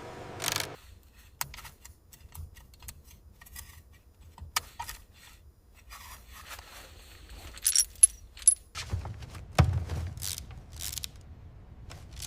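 Scattered metallic clicks, clinks and scrapes of hand tools and small metal fasteners being worked on car body panels, with a few short bright metal rings about eight seconds in and a heavier knock soon after.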